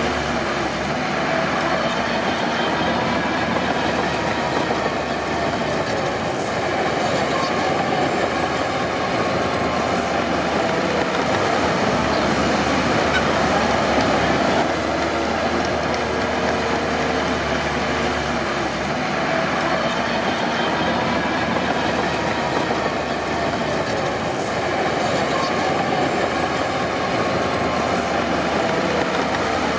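Crawler bulldozer working, its diesel engine running steadily under the clatter of its steel tracks.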